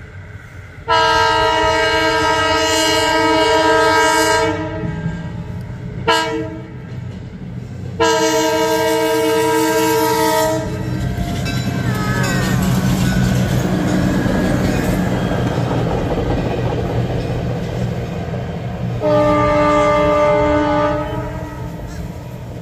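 Reading & Northern Budd RDC railcars sounding their multi-note horn for a grade crossing, a long blast, a short one and another long one, then passing close by with steady wheel-and-rail rumble and a brief squeal. A horn sounds again near the end.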